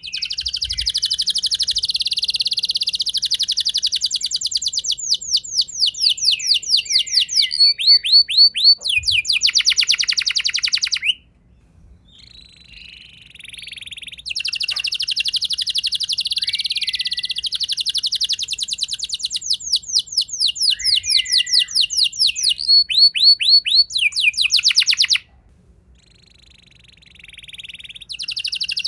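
Domestic canary singing its rolling song: long phrases of fast trills, each about eleven seconds long, with the trill changing pace and pitch several times within a phrase. Each phrase breaks off suddenly into a pause of about three seconds, and a new phrase starts near the end.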